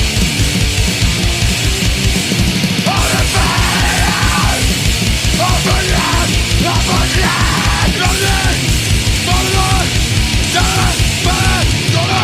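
Swedish crust punk: heavily distorted guitars and bass over fast, relentless drumming with rapid bass-drum beats. From about three seconds in, a higher melodic line of repeated bending notes rises above the wall of distortion.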